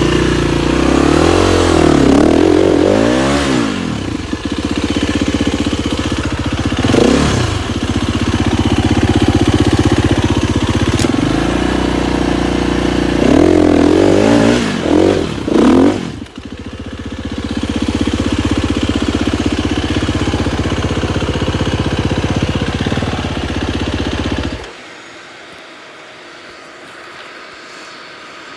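KTM 250 XCF-W four-stroke single-cylinder dirt bike engine running under throttle, revving up and down several times with steadier stretches between. Near the end it cuts off abruptly, leaving only a faint hiss.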